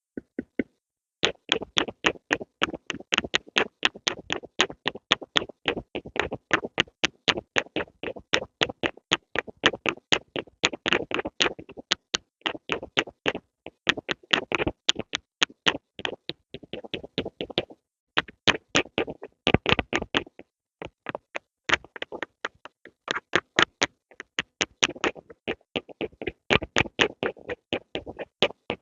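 Pencil making quick, short sharp strokes, about three to four a second, starting about a second in and going on with a few brief pauses.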